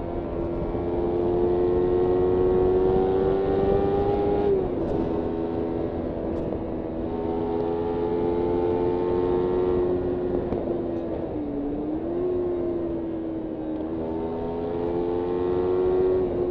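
Kawasaki Ninja 300's parallel-twin engine running under way at fairly steady revs. Its pitch creeps up, then drops sharply about four and a half seconds in, and it dips and recovers again about twelve seconds in.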